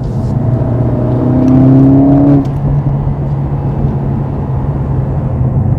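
Mercedes-AMG CLA 45 S's turbocharged 2.0-litre four-cylinder engine pulling under acceleration in Sport Plus mode, heard from inside the cabin. Its note rises for about two seconds, then drops off suddenly and settles into a steady drone.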